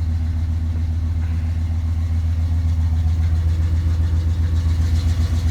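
Square-body truck's 350 small-block V8 idling steadily just after a cold start with a choke that doesn't work; it gets a little louder about halfway through.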